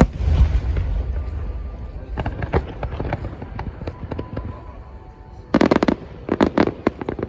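Aerial fireworks: a heavy boom at the start followed by a long low rumble, then crackling bursts about two seconds in and a dense run of rapid cracks from about five and a half seconds.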